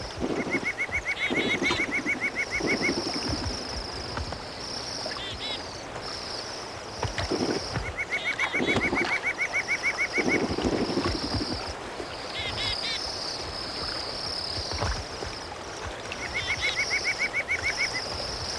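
Birds calling: a rapid trill of evenly repeated notes, about two seconds long, comes three times, with short clusters of higher chirps between. A steady high hiss runs underneath, and bursts of water splashing come now and then.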